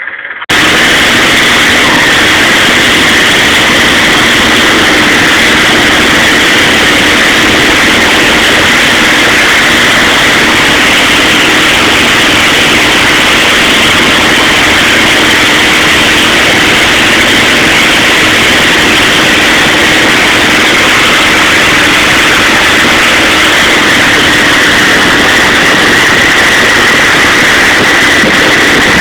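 Boat engine running steadily under loud, even noise, cutting in abruptly just after the start.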